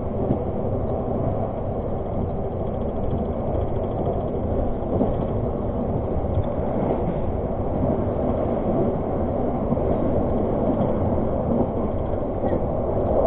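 Argo Parahyangan passenger train running along the track: a steady low rumble of wheels on rail, with a few faint knocks.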